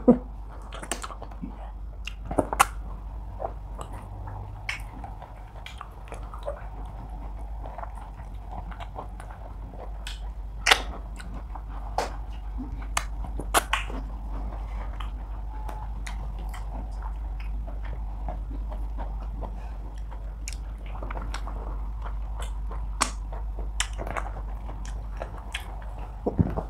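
Close-miked chewing of soft pounded yam and fish by people eating with their hands, with scattered sharp mouth clicks and smacks over a steady low hum.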